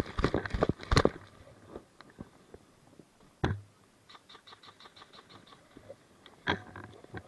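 Quick run of knocks and rustles for about a second, like hurried footsteps and kit movement, then scattered light clicks and knocks, with one louder thump near the middle and a short run of light, even ticks after it.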